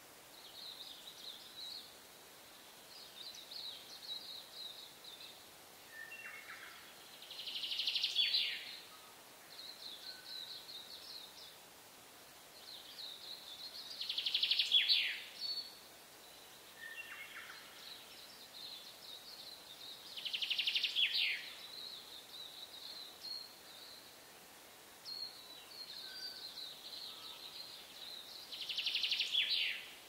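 Songbirds singing: a constant run of short, high chirping notes, with a louder song phrase about every six to eight seconds, four in all, each ending in a falling sweep.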